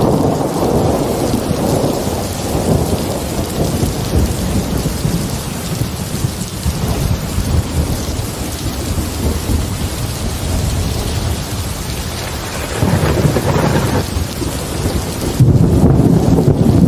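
Heavy rain falling steadily under continuous rolling thunder. The thunder swells about two-thirds of the way in and grows louder near the end.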